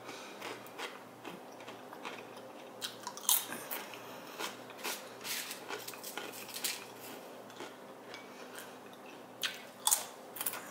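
Tortilla chips being bitten and chewed: irregular sharp crunches scattered through the chewing.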